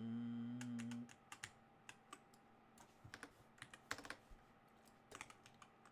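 Computer keyboard typing: scattered, irregular keystrokes. A steady low hum at the start lasts about a second.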